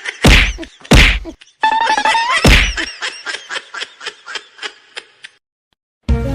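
Comedy sound-effect track: three loud whacks mixed with musical tones and a rising glide, then a run of quick notes fading out, and music starting again near the end.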